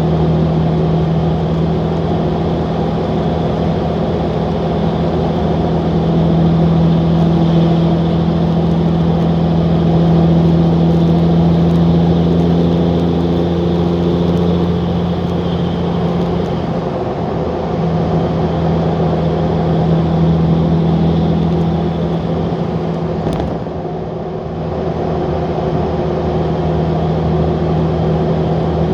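Straight-piped 5.9-litre Cummins inline-six turbo diesel running under way at a steady cruise: a loud, deep, even drone that breaks off for a moment about 17 seconds in and then settles back to the same note.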